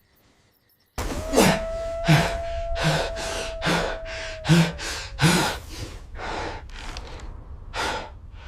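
Rapid, heavy gasping breaths, about a dozen in a row, starting suddenly about a second in. A steady high tone is held under the first four seconds of them.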